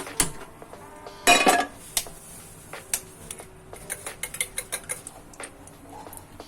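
Scattered light clicks and clinks of hard objects being handled, with one louder, ringing clatter about a second and a half in.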